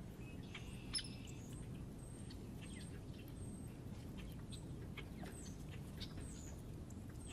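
Small birds at a feeder giving short, high chirps and calls scattered throughout, with a sharp click about a second in. A steady low rumble sits underneath.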